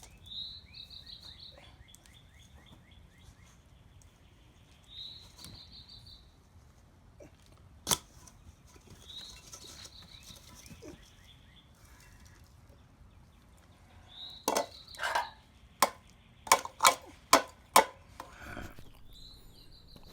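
A songbird singing the same short phrase about every five seconds, with a few sharp knocks and clicks near the end.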